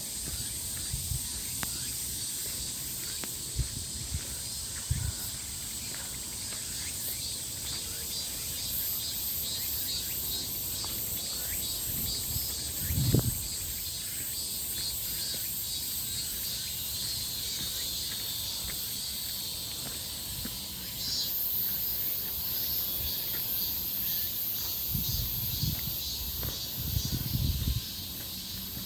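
Insects chirping steadily in a high-pitched, rapidly pulsing chorus. A few low thumps stand out, the loudest about halfway through, with a low rumbling stretch near the end.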